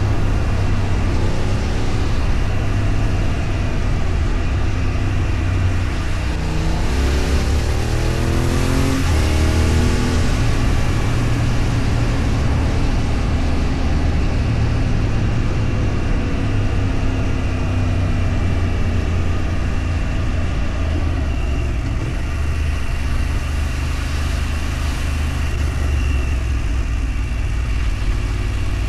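A road vehicle under way: the engine runs steadily under wind and road noise, and its pitch rises as it accelerates about seven to ten seconds in.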